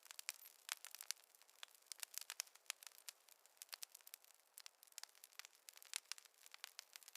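Wood fire crackling: irregular quick sharp pops and snaps, many a second, over a faint hiss.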